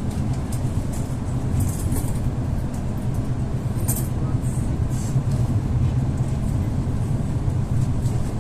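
Steady low rumble of an EP2D electric train running, heard from inside the passenger car, with a light hiss and a few faint clicks.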